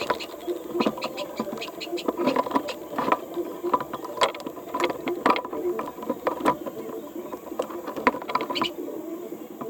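Irregular clicking and clattering of small hard parts being handled, typical of a power drill's gears and housing pieces during disassembly.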